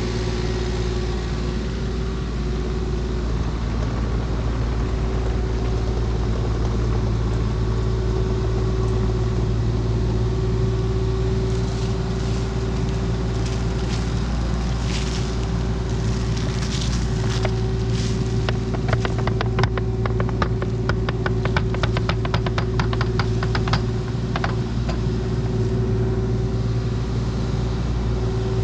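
A small diesel earthmoving machine's engine running steadily. Through the middle stretch there is a run of rapid clicking and rattling from the machine at work.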